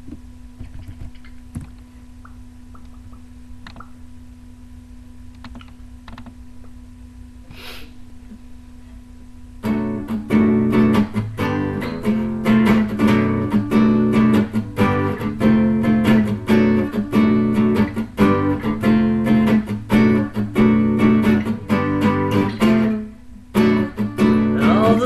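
A low steady hum with a few faint clicks, then about ten seconds in an acoustic guitar starts strumming chords as the song's introduction, with a brief break near the end.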